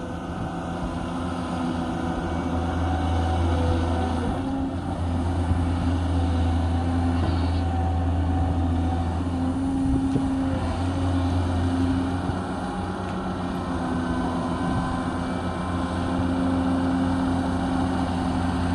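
Cat 320 hydraulic excavator's diesel engine running under working load, a steady low drone whose pitch and loudness swell and ease slightly as the machine works.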